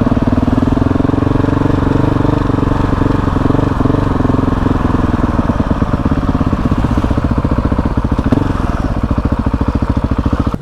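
KTM 690 SMC R's single-cylinder engine running at low, steady revs, with an even, fast pulse of firing strokes.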